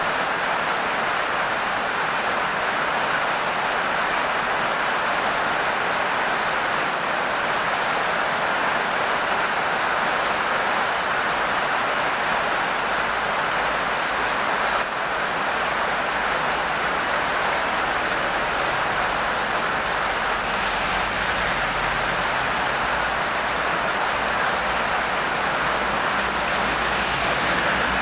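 Heavy rain falling steadily, a constant even hiss without let-up.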